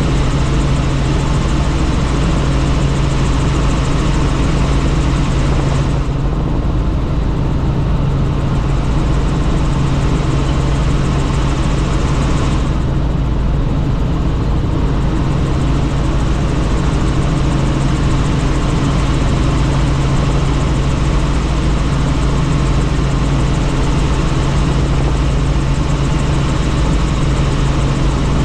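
Helicopter in flight heard from on board: a loud, steady drone of engine and rotor with a strong low hum. A hiss sits above it; it thins out about six seconds in and returns about six seconds later.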